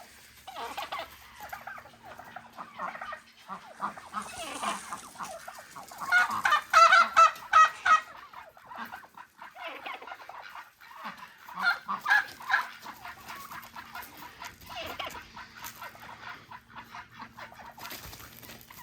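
Turkeys calling repeatedly, with a loud, rapid rattling call about six seconds in and another burst of calls about twelve seconds in.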